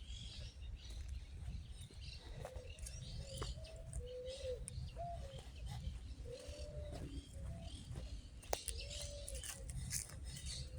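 Pigeons cooing in short low arched phrases, several times, with small birds chirping higher up and a steady low rumble underneath.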